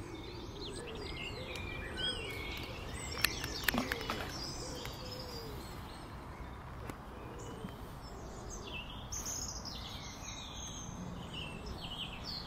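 Songbirds singing and chirping over a steady outdoor background noise, with a few sharp clicks about three to four seconds in.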